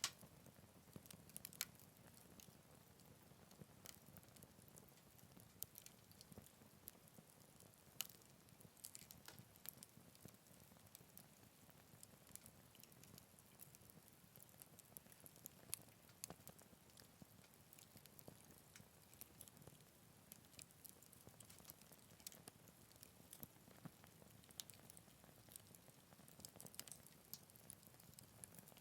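Wood fire in a Picogrill 398 fire pit crackling faintly, with irregular small pops and snaps.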